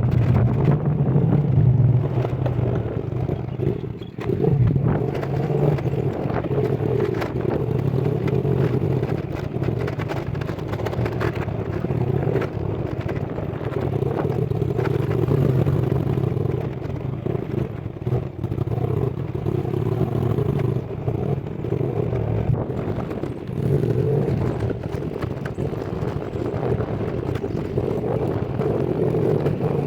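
A vehicle's engine running steadily on the move, its pitch swelling and easing a little, with frequent rattles and knocks on top.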